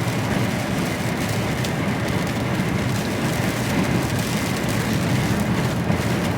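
HGV container lorry driving on the motorway, heard from inside the cab: steady engine drone and road noise.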